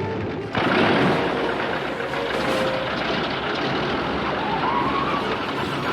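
Aircraft engines starting and running: a loud, dense, steady engine noise that comes in suddenly about half a second in and holds.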